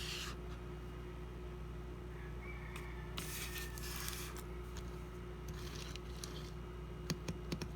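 Quiet room tone with a steady low electrical hum, and a few faint clicks and rustles from a small diecast toy car being handled, mostly about three seconds in and again near the end.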